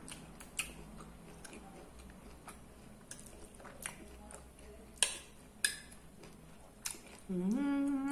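Close-up chewing of a mouthful of rice and beans, with a few sharp clinks of a metal spoon against a ceramic plate. Near the end, a drawn-out hummed "mmm" that rises briefly and then holds steady.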